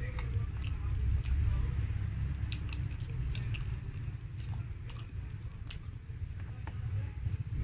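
Wet chewing, lip smacks and mouth clicks from someone eating a soft, creamy avocado float, heard as scattered irregular clicks over a steady low hum.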